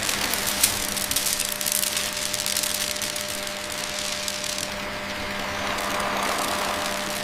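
A small motor running with a steady hum under a gritty scraping hiss and scattered clicks.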